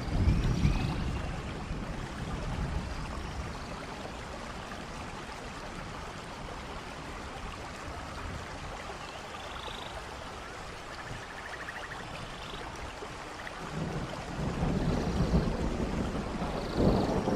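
Steady rush of a waterfall mixed with falling rain. Low thunder rumbles swell briefly at the start and again from about three seconds before the end.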